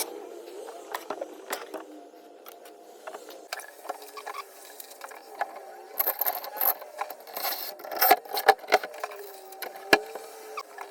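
Clicks, clinks and knocks of tools and metal parts being handled during shower valve work, busiest from about six to eight and a half seconds in, with one sharp knock near the end.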